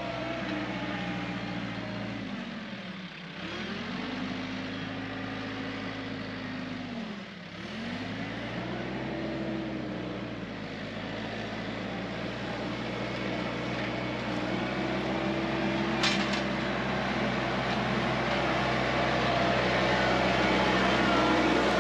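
TYM 4815 compact tractor's diesel engine running as it pulls a cutting harrow. Its pitch dips sharply and comes back twice in the first eight seconds, and there is a single sharp click about sixteen seconds in.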